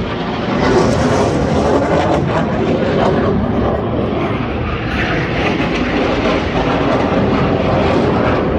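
Swiss Air Force display aircraft flying past: a loud, steady rushing engine noise that swells about a second in and again around five seconds.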